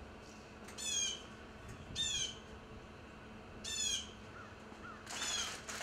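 A bird calling four times, short calls a second or two apart, each slightly falling in pitch, the last one noisier.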